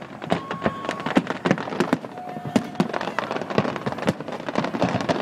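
Aerial fireworks crackling and popping in a dense, irregular stream of sharp bursts, with two short steady whistles in the middle.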